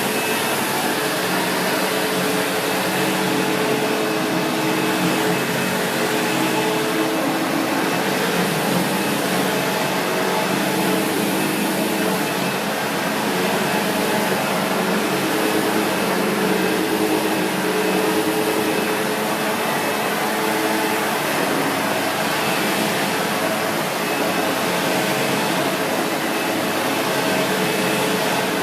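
Vacuum cleaner running steadily, its motor hum holding an even pitch throughout.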